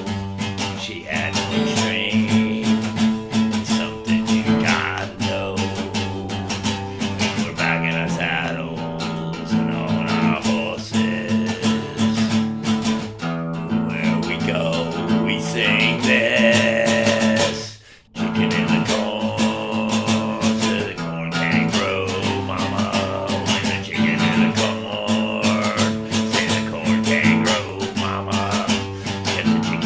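Acoustic guitar playing a song in a repeating low groove, with a brief drop in sound about 18 seconds in.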